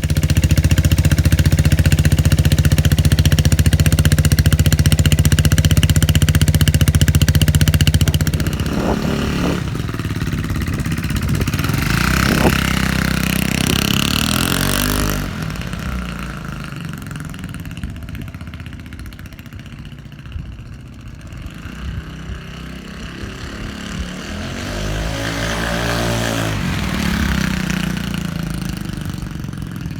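Royal Alloy GP200 scooter's single-cylinder four-stroke engine running through its exhaust. It is held steadily at high revs for about eight seconds, then drops back, and is blipped with the throttle a few times, each rev rising and falling.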